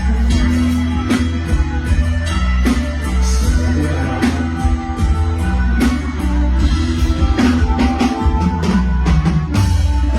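Loud live band music playing an instrumental passage: a drum kit keeping a steady beat over heavy bass and electric guitar.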